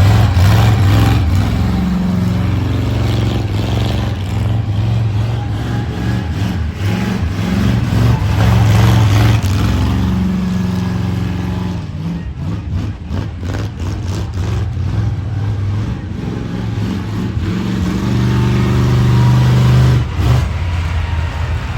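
Loud monster truck engine running and revving, its pitch rising and falling in long swells, with a run of sharp pops about halfway through.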